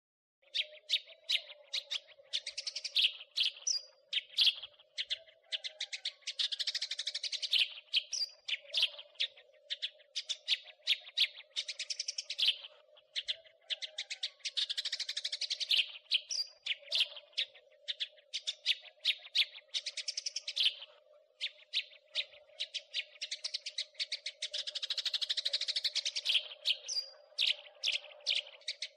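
House sparrows chirping and chattering in rapid runs of sharp chirps, with short pauses between runs and a faint steady hum underneath.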